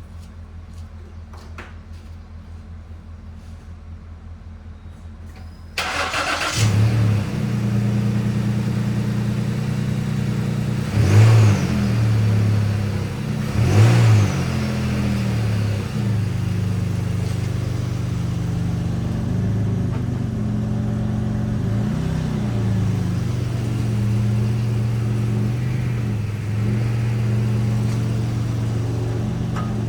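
2010 Lincoln MKX's 3.5-litre V6 engine cranking briefly and starting about six seconds in, blipped twice, then idling steadily; the car has a failed water pump. A low steady hum is heard before the start.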